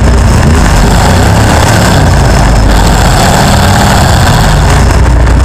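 1975 Chrysler Newport's V8 running loudly at low revs through short open exhaust stacks poking up through the hood, with a steady, rough exhaust note.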